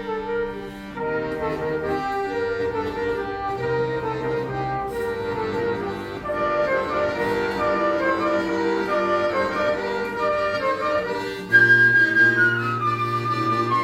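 Instrumental music with held chords under a moving melody line, in the steady reedy sound of a bayan (button accordion). About three quarters of the way through it grows louder, with a high held note that steps down.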